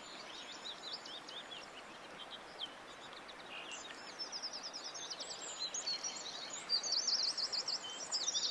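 Several wild birds chirping and twittering over a steady background hiss, the calls growing busier and louder about halfway through, with a quick run of repeated notes near the end.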